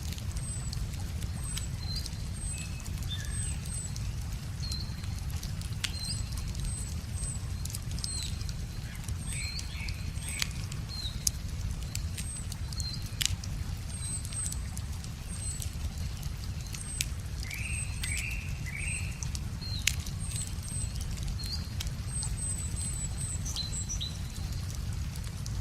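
Wood fire crackling with scattered sharp pops, over a steady low rumble of running river water, while a small bird repeats short high chirps about once a second and another bird gives a few lower chirps.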